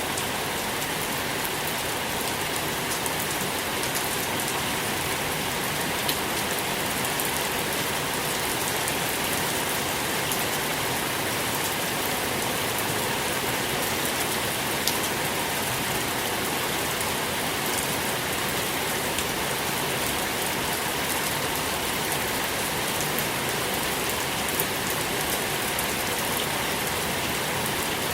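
Steady, even rain with scattered single drop impacts.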